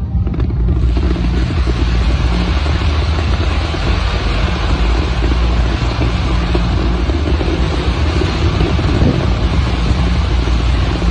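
Steady rushing hiss from a fireworks display of fountain fireworks spraying continuously, over a heavy low rumble. The hiss swells in sharply under a second in and then holds with no distinct bangs.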